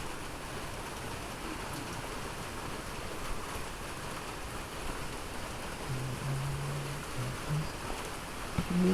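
Steady rain falling, an even hiss. A faint low voice murmurs briefly about six seconds in.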